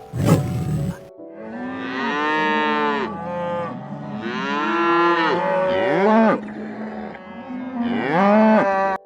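Cattle mooing: a string of long calls, each rising and then falling in pitch, some overlapping one another.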